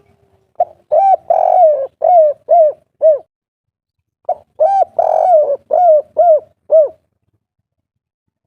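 Spotted dove (derkuku, tekukur) singing its 'kuk 3' song: two cooing phrases, each a short note and a long coo followed by three shorter coos.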